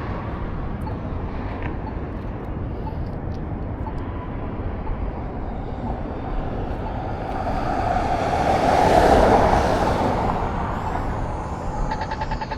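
Steady rushing wind and road noise from riding a bike, with a motor vehicle passing that swells up to its loudest about nine seconds in and then fades away.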